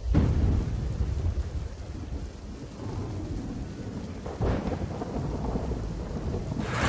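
Rain falling steadily on a road, with a deep rumble underneath. A loud broadcast transition whoosh starts right at the end.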